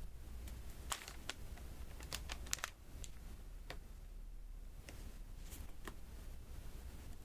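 Light, irregular clicks of resin diamond-painting drills being tapped with a drill pen onto the sticky canvas, about nine in all, several in quick pairs.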